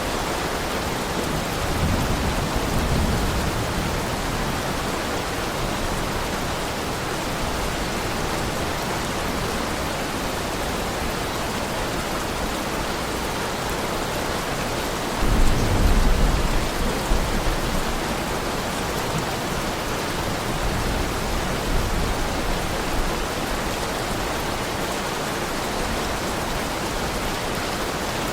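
Heavy rain falling steadily, with a low rumble of thunder about two seconds in and a louder thunderclap starting suddenly about halfway through, rolling away over a few seconds.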